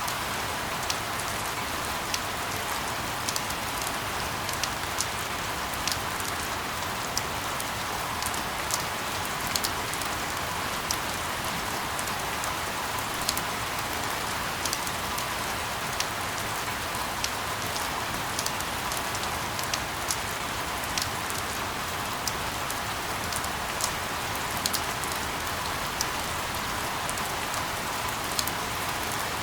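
Steady rain: an even, constant hiss with scattered sharp drop taps throughout.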